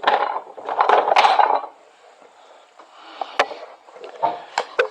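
Tools and wooden objects being rummaged through and moved, a burst of clattering and rattling for about the first second and a half, then a few separate sharp knocks.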